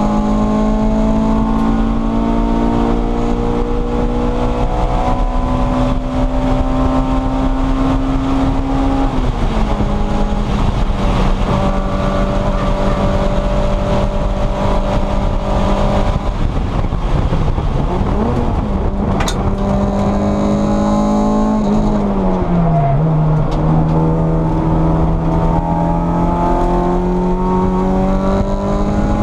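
An EG Honda Civic's engine running hard on a road course, heard from inside the cabin. Its pitch climbs slowly, drops quickly about nine seconds in, and drops again about twenty-two seconds in.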